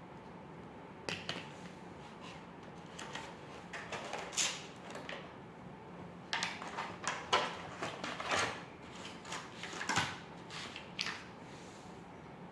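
Drawing strokes on paper: a string of short, irregular scratches of varying length, some quicker and louder than others, starting about a second in and stopping shortly before the end.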